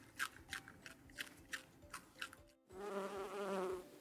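A rabbit crunching food, in quick crisp bites about three a second. About two and a half seconds in, it gives way to a loud bee buzzing with a slightly wavering pitch.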